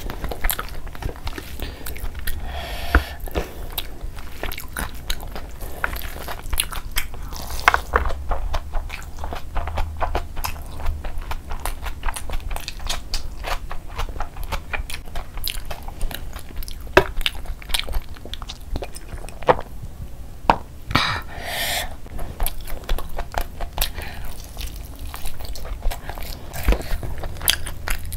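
Close-miked eating: a person chewing mouthfuls of spiced mutton and rice, eaten by hand, with many wet mouth clicks and smacks and a short hiss about three-quarters of the way in.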